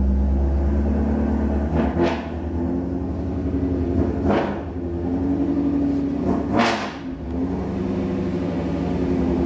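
Ford Mustang engine running with its stock switchable exhaust in loud mode, a steady rumble broken by three short throttle blips about two seconds apart.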